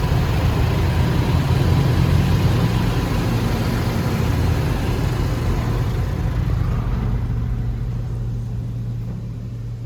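Automatic car wash equipment working over the car, heard from inside the cabin: a loud steady rush of noise over a low hum, which fades over the last few seconds.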